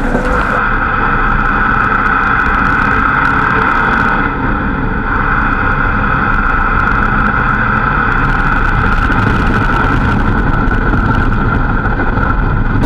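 Truck engine and road noise while driving, steady, with a strong high whine running over it; the sound dips briefly about four seconds in.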